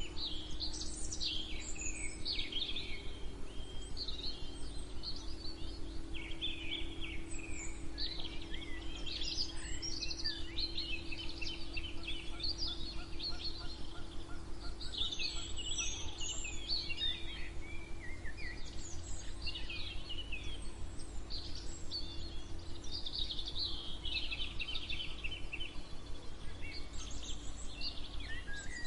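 Several songbirds singing and calling at once, overlapping chirps, trills and warbles, over a steady low hum and rumble.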